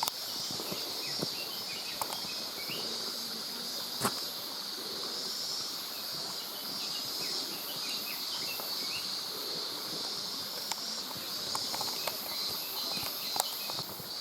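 Steady, high-pitched insect chorus with a slight pulsing. A few sharp clicks are heard now and then.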